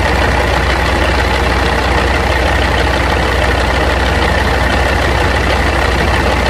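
Caterpillar C15 straight-six diesel in a Peterbilt 387 dump truck idling steadily. It is running well, with no excessive top-end blow-by.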